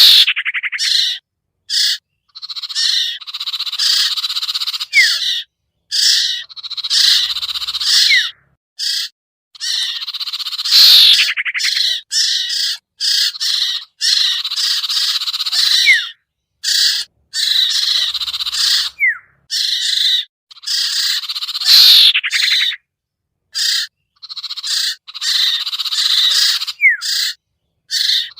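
Looped lure recording of sirtu (sertu) bird calls: loud bursts of calls in short phrases, each cut off abruptly, with brief sharp falling whistles here and there, the sequence repeating about every eleven seconds.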